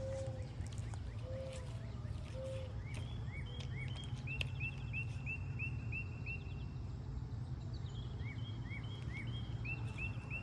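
Birds calling outdoors over a steady low background rumble: a few low cooing notes in the first couple of seconds, then a rapid series of short high chirps, about five a second, from about three seconds in, pausing and starting again near the end.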